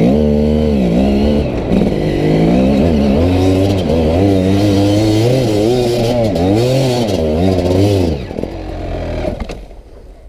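GasGas EC 300 two-stroke enduro engine revving up and down over and over under load on a steep climb. About eight seconds in the revs fall away, and the sound dies down near the end.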